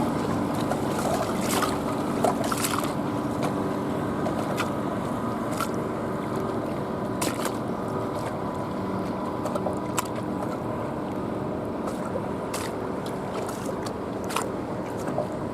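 Inboard motorboat engine running steadily on the water, with water lapping and a few short sharp ticks and splashes.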